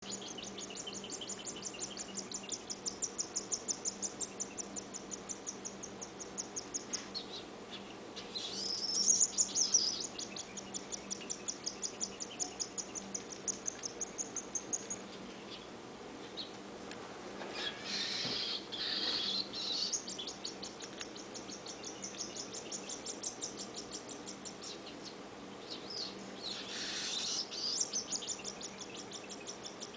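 Baby cockatiel's food-begging calls while being handfed: long runs of rapid, rhythmic high chirps, broken three times by louder, harsher squawks.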